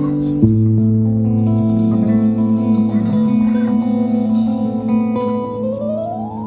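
Live rock band playing, led by an electric guitar holding sustained chords, with a new chord struck about half a second in. Near the end a note slides upward and the music starts to fade.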